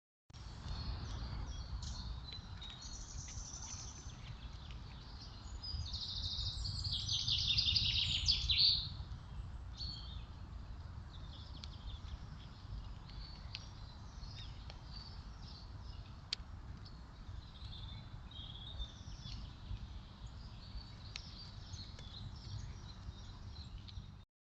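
Songbirds calling and singing in woodland, with one loud, fast trilling song about six to nine seconds in, over a steady low background rumble.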